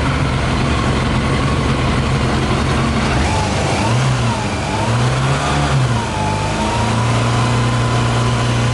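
Yamaha YZF 600R four-cylinder engine idling on a 40%-alcohol whisky fuel mix, with its speed briefly rising and falling between about four and six seconds in before it settles to a steady idle. The owner hears it as running funny, unlike on petrol.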